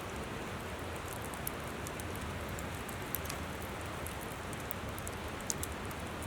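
Campfire crackling, with scattered sharp pops every second or so, over the steady rush of a flowing river.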